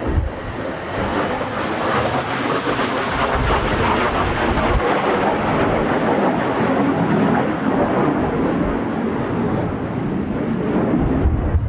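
Blue Impulse Kawasaki T-4 jets flying past, their jet noise swelling to a peak around the middle and easing off toward the end. Strong wind buffets the microphone with low thumps.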